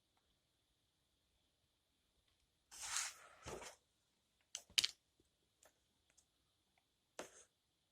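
Faint handling noises from soldering work on small wires: a short rustle about three seconds in, a few sharp clicks just before the five-second mark, and another brief rustle near the end, over a faint steady high whine.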